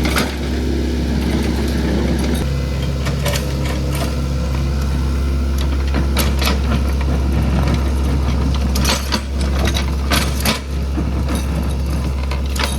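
Excavator engine running with a steady low drone, with repeated sharp knocks and clanks, several close together about nine to eleven seconds in.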